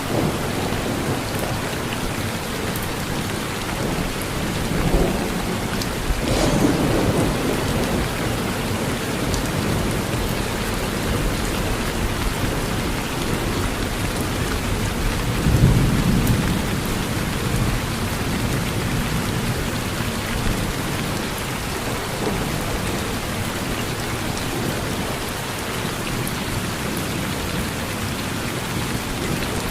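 Steady rain falling on a porch, with thunder rumbling through it: a sharper thunderclap rolling off about six seconds in and a deep, heavy rumble around the middle.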